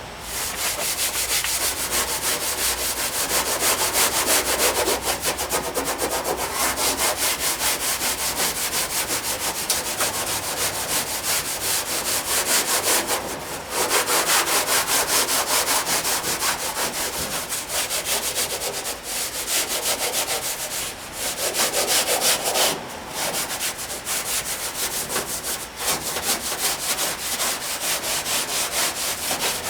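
Scotch-Brite pad scrubbed in rapid back-and-forth strokes against the painted steel body panel of a 1959 VW single cab truck, rubbing back the oxidised paint to bring out the original blue. It pauses briefly about 13 seconds in and again about 21 seconds in.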